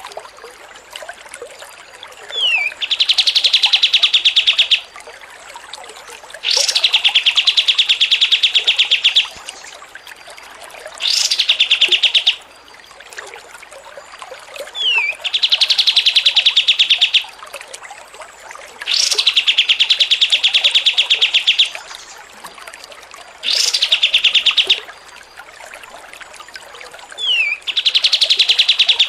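Songbird recording played as a masteran training track: a rapid rattling trill, repeated in bursts of one to two and a half seconds every few seconds, each opening on a high note and some led by a short falling whistle. The same sequence repeats about every twelve seconds, as in a looped recording.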